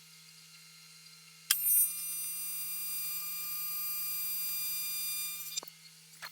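AC TIG welding arc on thin 6061 aluminium, run at 150 Hz AC frequency. It strikes with a sharp crack about a second and a half in, buzzes steadily for about four seconds, then cuts off suddenly. A low steady hum runs underneath.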